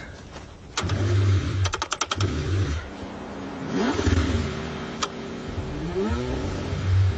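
Car engine being cranked in the cold: short bursts of low cranking with a quick run of clicks, and the engine briefly sputtering and revving, its pitch rising and falling.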